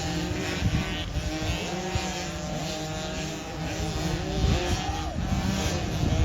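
Engines of several youth motocross dirt bikes racing on the track, each pitch rising and falling as the riders rev and shift.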